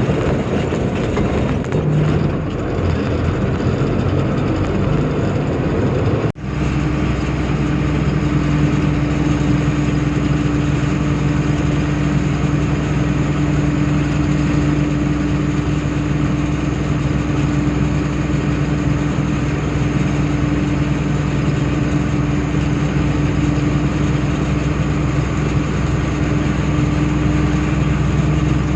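Truck engine running steadily on the road. About six seconds in the sound drops out for a moment. After that a steady, even-pitched droning hum holds.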